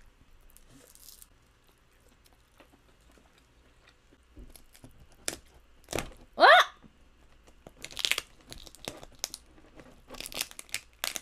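King crab shell being cracked and pulled apart by hand: scattered sharp cracks, then a dense run of cracks and crunches over the last few seconds. About halfway through comes a short vocal sound that slides up and back down in pitch, the loudest sound here.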